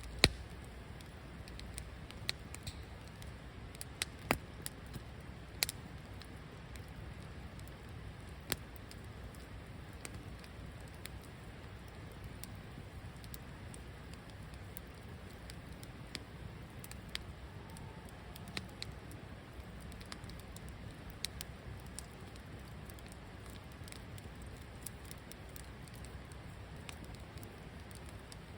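Wood campfire crackling: a steady low hiss of burning under scattered sharp pops and snaps, with a cluster of louder pops a few seconds in.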